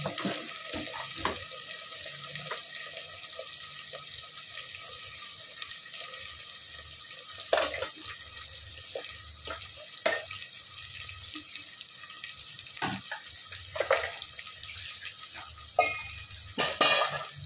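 Sliced onions sizzling in hot oil in an open pressure cooker: a steady hiss with a few sharp crackles and pops, the loudest near the end.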